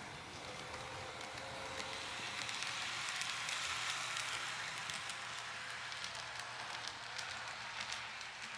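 Small model train running along the track with a hissing wheel-and-motor noise and faint clicks, growing louder to a peak about halfway through as it passes close, then fading away.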